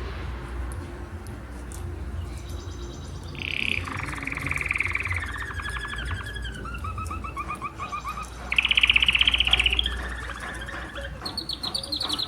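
Domestic canary singing a run of rapid trills, each held for about a second at a new pitch. The loudest trill comes about two thirds of the way through, and a high trill closes the run.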